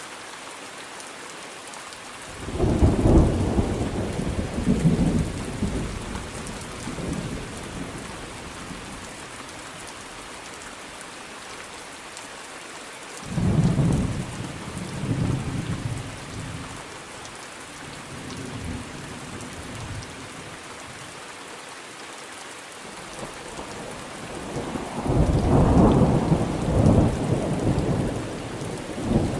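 Steady rain with rolls of thunder: three low rumbles swell up about two, thirteen and twenty-five seconds in, each rolling on for several seconds over the even hiss of the rain.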